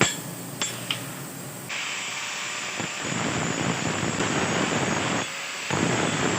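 A few hammer blows on steel, then from about two seconds in an angle grinder runs steadily with a high whine, cutting away steel pieces from a scrap steel tube, easing off for a moment near the end before picking up again.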